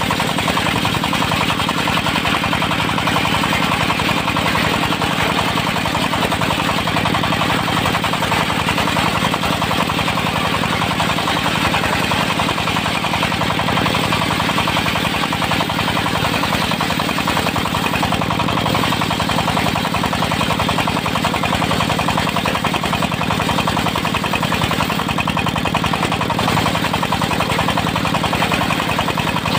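Diesel engine of a portable circular sawmill running steadily with a rapid, even beat.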